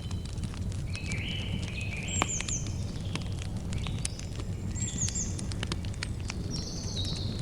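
Campfire crackling, with frequent sharp pops and one louder pop about two seconds in. Over it a bird sings short phrases of whistled notes stepping down in pitch, repeated every second or two.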